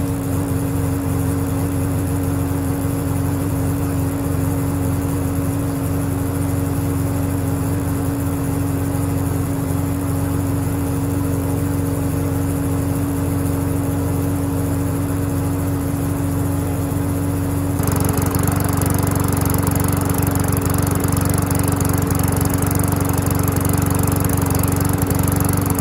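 Small four-stroke engine of a walk-behind lawnmower running steadily at an even speed, with no air filter fitted. About two-thirds of the way through the sound gets louder and harsher while the engine speed stays the same.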